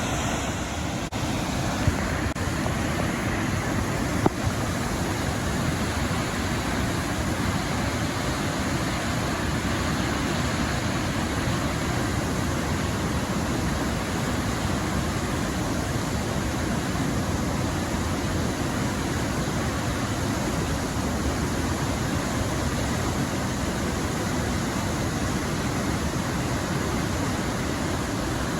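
Wannon Falls waterfall: a steady rush of falling water, with two faint clicks in the first few seconds.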